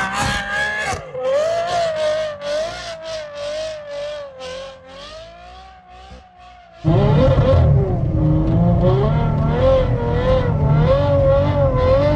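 Ferrari F12's V12 engine revving up and down as the car drifts on snow. The engine fades away at first, then comes back abruptly much louder about seven seconds in.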